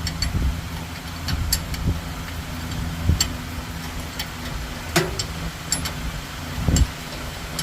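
An engine running steadily at idle, with several sharp clicks and knocks over it.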